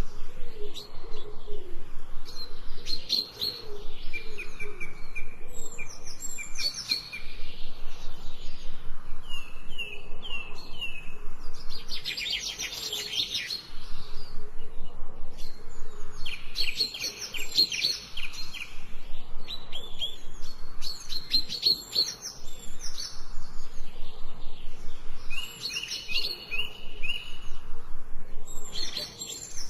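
Songbirds chirping and singing in repeated bouts of rapid high chirps and short trills, with a low cooing under them in the first few seconds.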